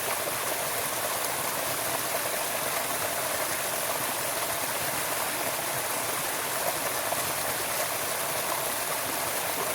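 Stream of running water, rushing steadily and evenly with no breaks.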